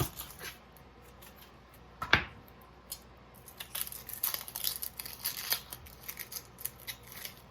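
Knife and hands working an onion on a cutting board: one sharp knock about two seconds in, then a run of dry crackling and tearing, as of the onion's papery skin.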